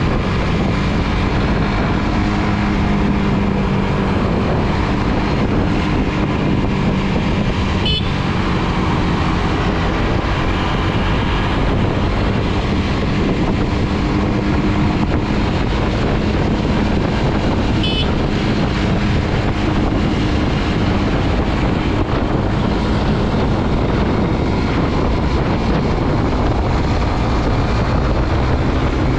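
Suzuki GSX-R150's single-cylinder engine running steadily on the move, with wind and road noise.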